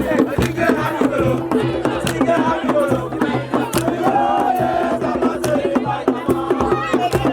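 A group of voices chanting and singing together over percussion, with frequent sharp strikes and a steady low held tone underneath.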